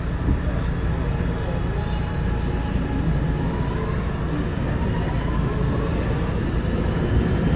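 Interior of an R211A subway car running between stations: a steady, loud rumble of wheels on rail, with a faint whine that glides in pitch.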